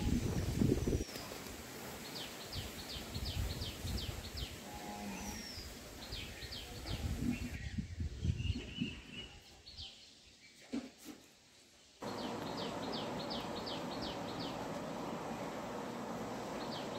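A bird repeating quick runs of short, high, falling chirps every few seconds, over outdoor ambience. A low, uneven rumble on the microphone fills the first half, and a steady hiss takes over after a cut about two-thirds of the way in.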